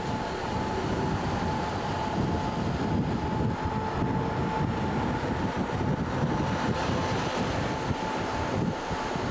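Local passenger train running at speed, heard from inside the carriage: a steady rumble of wheels on the rails, with a thin, steady whine above it.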